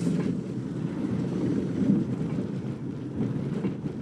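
Steady low rumble of road and engine noise inside a minivan's cabin while driving.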